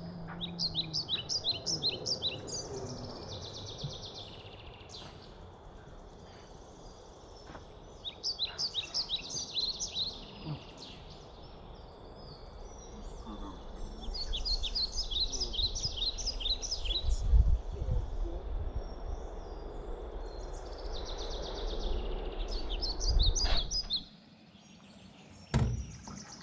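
A songbird singing over an outdoor background: four runs of quick, high chirping notes, each about two seconds long, spread through the clip. In the second half a low rumble builds and then stops abruptly shortly before the end.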